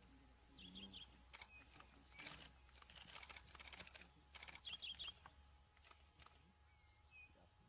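Faint bush ambience: a few short, high bird chirps, and a run of quick dry clicks through the middle.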